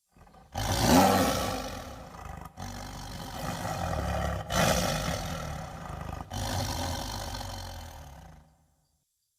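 A large animal's deep, rough roaring, loudest about a second in, broken three times by abrupt brief gaps.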